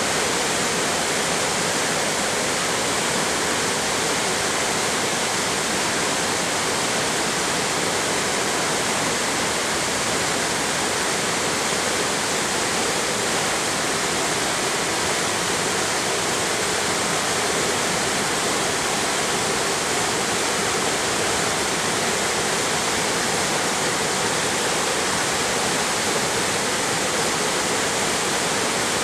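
Mountain stream and waterfall water rushing over rock in a steady, unbroken hiss.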